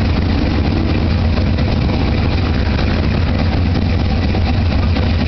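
A car engine idling steadily as the car crawls along at walking pace, a constant deep rumble.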